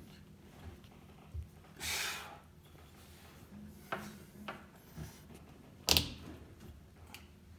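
Hand work on hoses and fittings in a jet ski's engine compartment: a brief scraping rub about two seconds in and scattered knocks and clunks, the sharpest about six seconds in.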